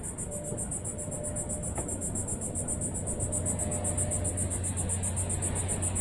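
Insects chirping in a steady, rapidly pulsing high trill, with a low steady hum underneath.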